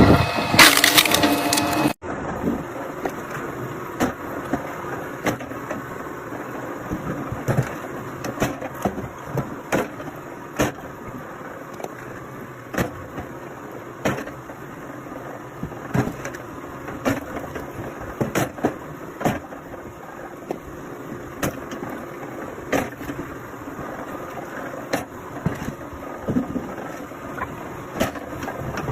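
Firewood being split: repeated sharp, irregular cracks and splintering of wood over a steady background noise, louder and denser for the first two seconds before an abrupt change.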